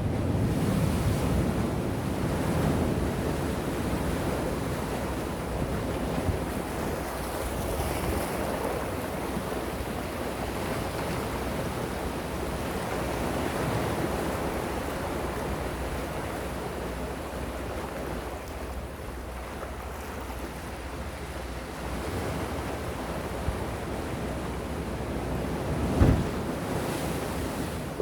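Calm sea waves washing gently on the shore, a steady wash that swells and eases slowly. Near the end there is one short low thump.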